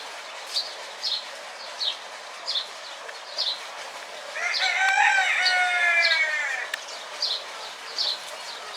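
A rooster crows once, a long call of about two and a half seconds starting midway that falls slightly at the end. Short high bird chirps repeat about once a second throughout.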